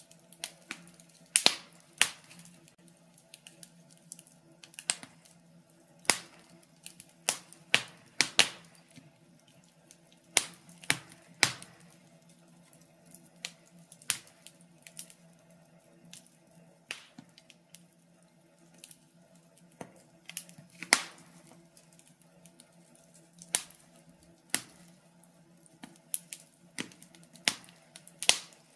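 Wood fire crackling in a fireplace: irregular sharp pops and snaps, one or two a second and a few much louder than the rest, over a faint steady low hum.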